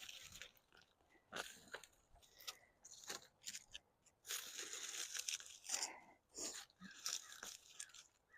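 Hands digging and rummaging through dry potting soil in a fabric grow bag: faint, scattered crunchy rustles, busiest about halfway through.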